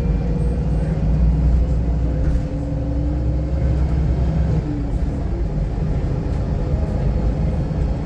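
VDL SB200 single-decker bus's diesel engine running on the move, heard from inside the cabin: a heavy, steady low rumble with a faint whine that holds, then dips and fades about four and a half seconds in.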